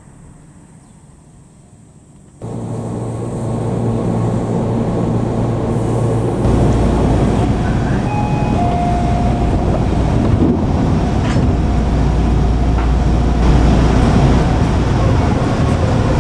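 Electric train running on the line, loud and steady with a low hum. It starts abruptly after a quiet first two seconds and grows louder. The hum drops lower about six seconds in, and a few clicks come near the middle.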